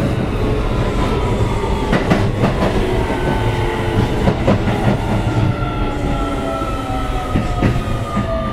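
Inside a Keio 7000-series train car in motion, slowing down: several motor tones fall slowly and steadily in pitch under braking, over a low running rumble with scattered clicks from the wheels on the rail joints.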